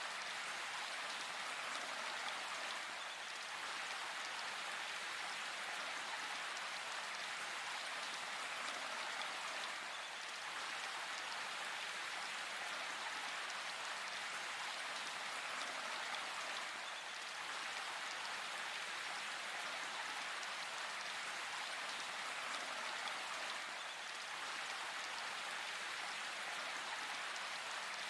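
Steady rain falling in a forest, an even hiss of drops pattering on leaves and ground with no lulls.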